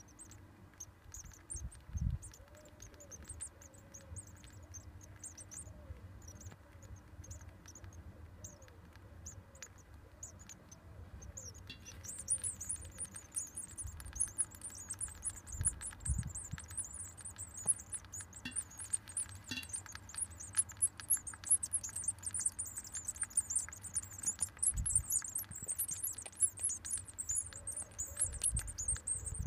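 Great tit nestlings giving thin, high-pitched begging calls in the nest: scattered at first, then a dense, continuous chorus from about twelve seconds in. A few low thuds come in between.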